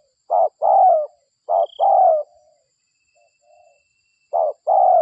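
Spotted dove cooing: three two-part phrases, each a short note followed by a longer coo that falls in pitch, with a brief pause before the last phrase.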